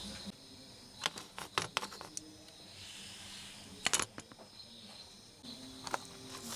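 A few sharp clicks and taps: a cluster about a second in, a louder pair near four seconds and another near six, over a faint steady hum.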